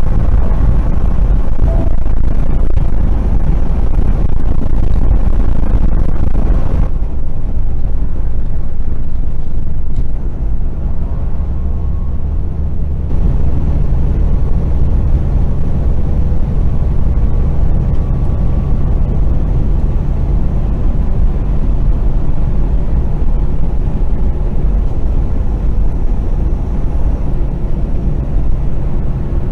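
Steady low rumble of a moving vehicle's engine and road noise heard from inside the cab, with the higher hiss thinning out for a few seconds near the quarter mark.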